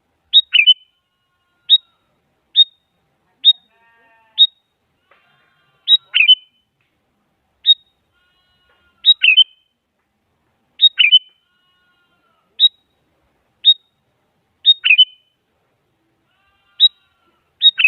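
Sooty-headed bulbul calling: short, sharp call notes that drop quickly in pitch, given singly or in quick pairs about once a second.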